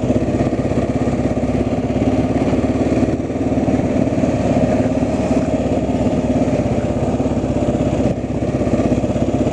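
A vehicle engine running steadily at an even, low speed.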